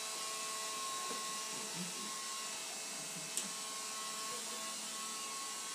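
Electrolux Ergorapido cordless stick vacuum cleaner running steadily, a constant whine over a high hiss. A single sharp click about three and a half seconds in.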